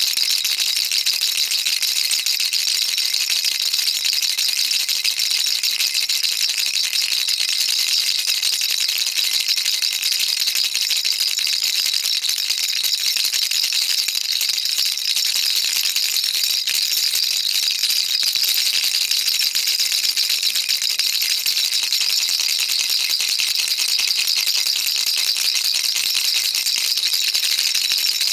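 Baby rattle shaken continuously, a dense, even, hissing patter of small beads with no pauses.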